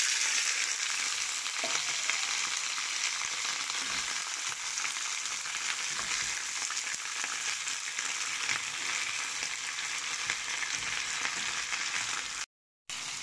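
Small shore crabs (talangka) frying in hot oil with onion, garlic and ginger in a wok. A loud sizzle starts as the crabs are tipped in, then runs steadily while they are turned with a spatula. It cuts out briefly near the end.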